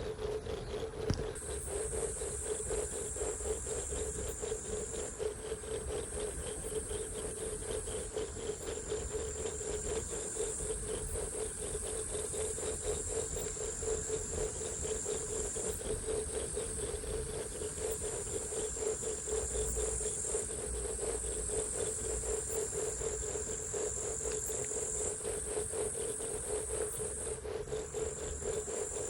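Insects trilling continuously in high-pitched stretches of a few seconds each, shifting between two pitches, over a steady low hum.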